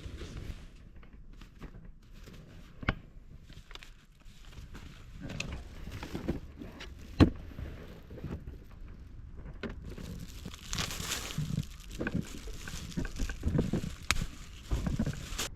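Camping gear being handled and laid out: scattered knocks and clicks, with two sharp knocks about three and seven seconds in, and rustling of packaging or bags in the second half.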